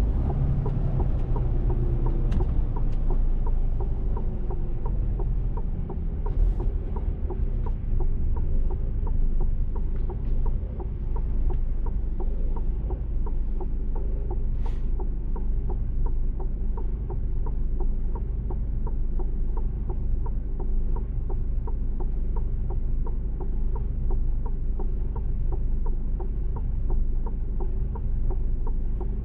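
Mercedes-Benz Actros truck's diesel engine and road noise heard from inside the cab: a steady low rumble with a fast, regular ticking over it.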